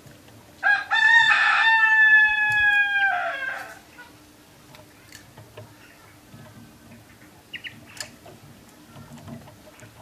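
A rooster crows once, a single long call of about three seconds that starts under a second in and sinks slightly in pitch toward its end.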